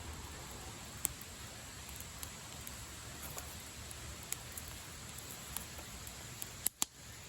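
Wood campfire burning: a steady hiss with scattered crackles and pops, and two sharp pops close together near the end.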